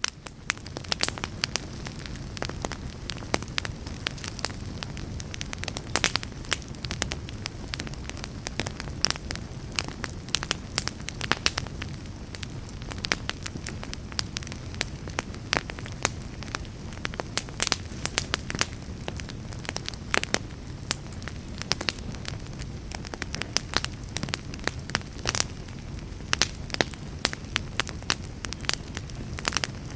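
Wood log fire crackling in a fireplace: frequent sharp snaps of burning wood over a steady low rumble of the flames.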